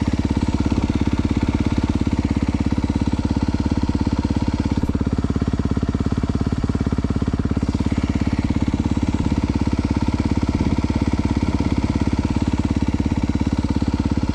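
2022 Honda CRF250R's single-cylinder four-stroke engine idling steadily with an even, unchanging beat, picked up by a helmet-mounted Bluetooth headset microphone.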